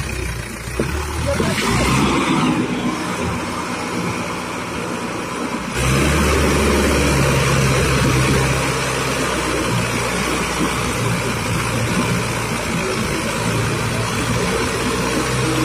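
Trakstar tractor's diesel engine running steadily, getting louder about six seconds in and staying at that level.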